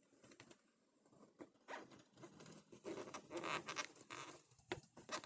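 Faint scraping, rubbing and clicking of a bumper hole plug being pushed and worked into a hole in the bumper by hand, busier after about two seconds, with a couple of sharp clicks near the end.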